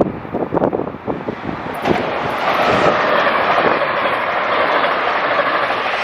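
SEPTA Silverliner V electric multiple-unit train passing on the Northeast Corridor. Gusts buffet the microphone at first, then about two seconds in a loud, steady rushing of wheels on rail sets in and holds.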